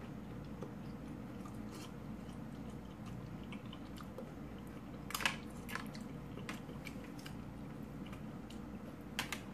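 Close-up chewing of a mouthful of stuffed bell pepper, soft mouth sounds over a steady low background hum, with a few short sharp clicks: the loudest about five seconds in and two close together near the end.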